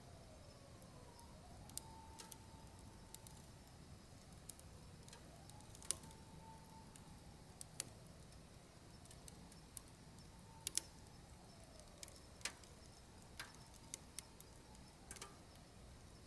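Wood burning in a wood stove, crackling with sharp, irregular pops over a low steady rumble. A faint whistling tone slowly sinks and rises again every few seconds.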